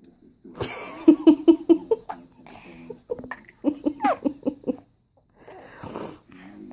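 Laughter in two bouts of quick, rhythmic giggling, with breathy gasps around them.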